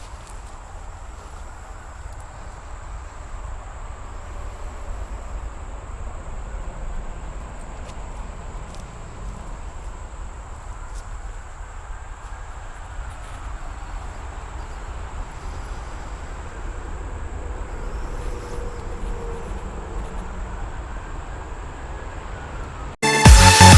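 Outdoor ambience: a steady low rumble with a thin, steady high-pitched whine and a few faint ticks. Loud electronic dance music cuts in just before the end.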